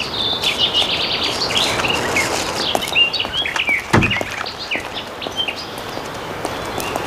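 Birds chirping, many short calls overlapping over faint outdoor background noise, with a single low thump about four seconds in.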